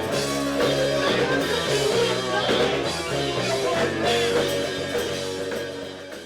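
Rock band playing loud, with electric guitars, bass and drum kit; the music fades down near the end.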